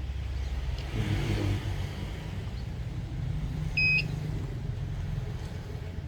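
Low, steady rumble of motor traffic, with a short high beep about four seconds in.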